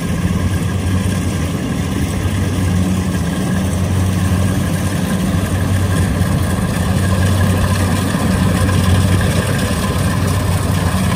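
Diesel engine of a tracked rice harvesting machine running steadily, a loud, even low drone.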